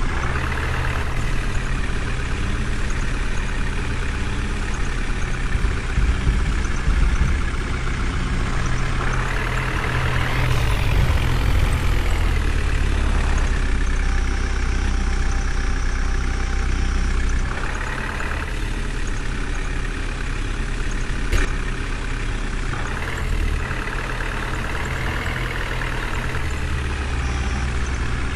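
Heavy diesel engine running with a deep steady drone. It revs up and rises in pitch about nine seconds in, eases back a few seconds later, and swells briefly again around eighteen seconds in. There is one sharp click a little past twenty-one seconds.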